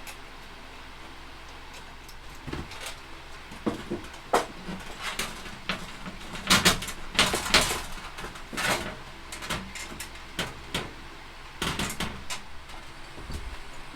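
Irregular knocks and clatter of hardware being handled while a microwave's wall mounting plate is fitted with toggle bolts. The loudest cluster of knocks comes about halfway through.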